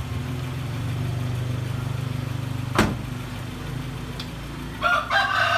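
Car engine idling steadily, with a single sharp knock about three seconds in. Near the end a rooster crows.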